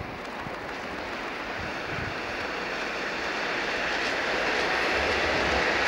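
A train approaching, its rushing noise growing steadily louder, with a low rumble coming in near the end.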